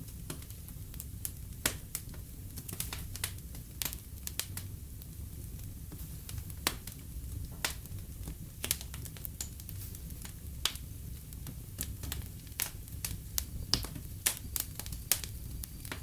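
Wood fire in a fireplace crackling, with irregular sharp pops and snaps several times a second over a low steady rumble of burning.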